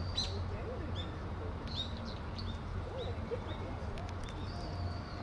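Small birds chirping: scattered short, high chirps and brief whistles, over a steady low hum.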